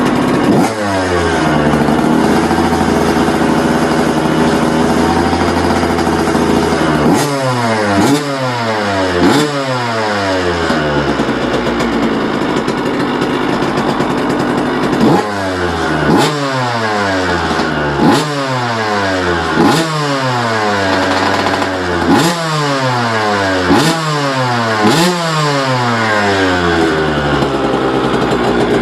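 2004 Suzuki RM125's 125 cc two-stroke single engine idling, then blipped sharply about ten times. Each rev shoots up and falls back to idle, in two bursts starting about seven and fifteen seconds in.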